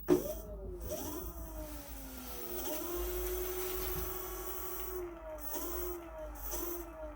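Electric scooter motor whining, its pitch rising, holding and falling several times as the newly replaced throttle is worked. It shows the motor running normally now that the controller is repaired. A sharp click comes just at the start.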